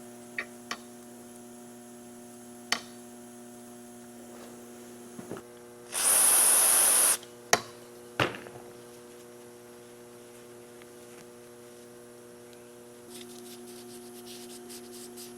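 Steady electrical mains hum, with a few light clicks and taps from handling small metal carburetor parts. About six seconds in comes a loud hiss lasting about a second, the loudest sound here.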